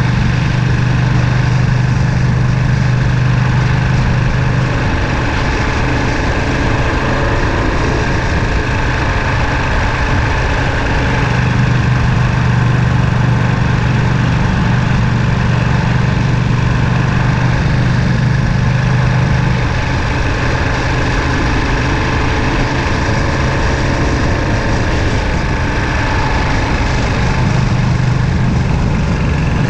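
Ducati Panigale V2's V-twin engine and exhaust running steadily, its low note dropping away for a few seconds about five seconds in and again around twenty seconds.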